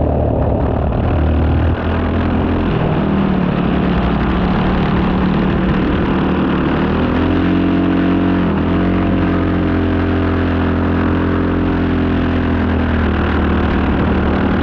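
Four-stroke racing kart engine running under load, heard on-board, mostly at steady revs. About eight seconds in, the pitch briefly dips and climbs back as the revs drop and pick up again.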